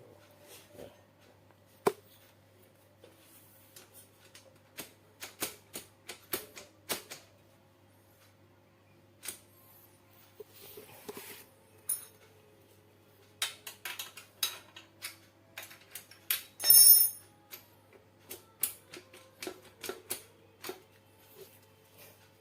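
Irregular metallic clicks, taps and clinks of hand tools on metal parts as a pulley on a homemade grinder is set into alignment. About three-quarters of the way through there is one louder, ringing clink.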